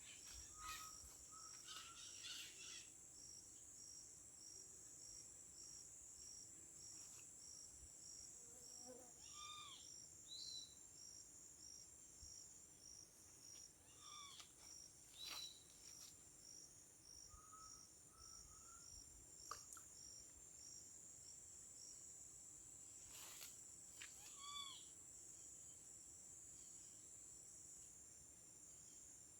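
Faint chorus of insects: a steady high-pitched drone with a cricket chirping about twice a second, and a few short bird calls now and then.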